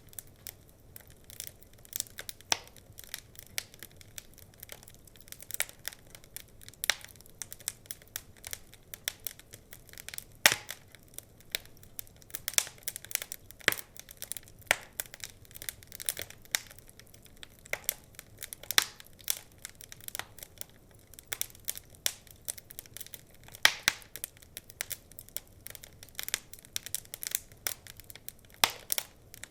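Wood fire crackling in a fireplace: irregular sharp pops and snaps over a low hiss, with a few louder pops scattered throughout.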